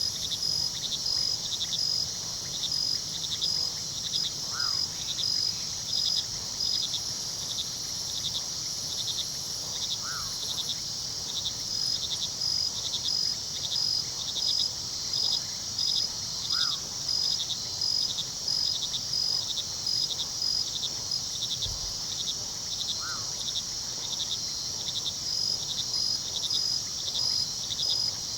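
Crickets chirping in a steady, evenly pulsed chorus, with a continuous high insect trill, over a low wash of river water. A short call from a frog or bird repeats four times, about six seconds apart.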